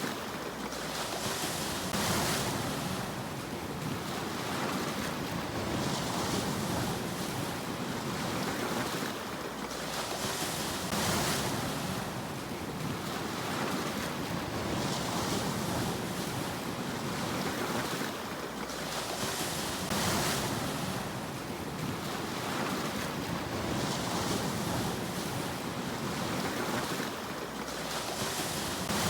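Sea waves washing in continuously, with a louder surging break roughly every nine seconds.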